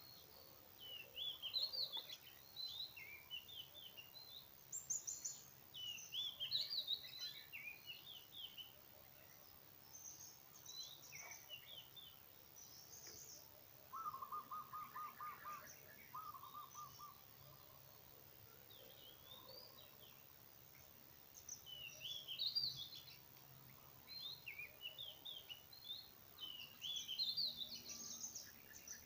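Birds singing and chirping in repeated bursts of quick, high phrases, with a lower, rapid run of repeated notes about halfway through.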